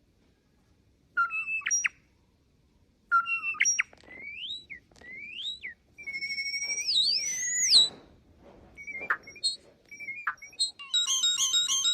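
A bird whistling a varied series of short, clear phrases with rising and falling glides, separated by brief pauses. Near the end a fast, regular run of electronic-sounding chirps begins.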